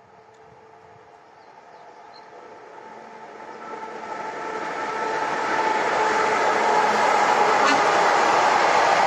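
Electric locomotive hauling a freight train of open wagons passing through a station. It grows steadily louder over about the first six seconds, then holds steady as the wagons run by, with a single sharp click near the end.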